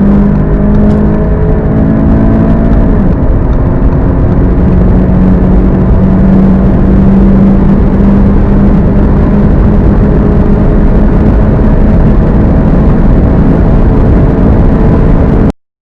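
Turbocharged 2.0-litre four-cylinder hot hatch at full throttle at high speed. The engine pitch climbs slowly, drops with an upshift about three seconds in, then climbs slowly again in the higher gear. The sound cuts off abruptly just before the end.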